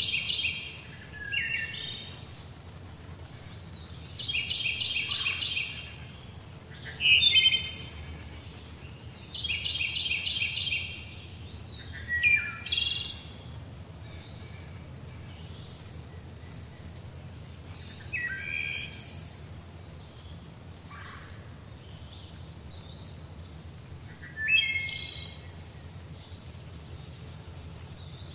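Songbirds singing: a short trilled phrase repeats about every five seconds in the first half, and sweeping calls come in between and a few more later. Under them runs a thin steady high tone and a low steady rumble.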